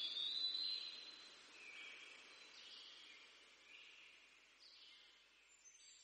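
Faint high bird chirps, a short phrase repeated about once a second, slowly fading.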